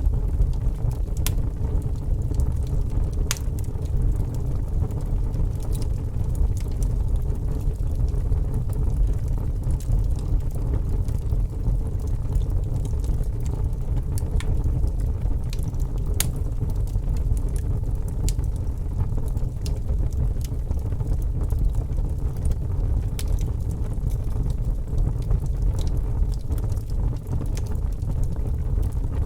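Fire crackling: a steady low rumble of burning with scattered, irregular sharp pops and snaps, a few of them louder.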